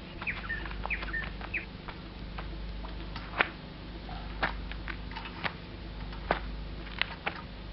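A few short bird chirps, then about six sharp knocks at irregular intervals, the loudest about three and a half seconds in, over a steady low hum.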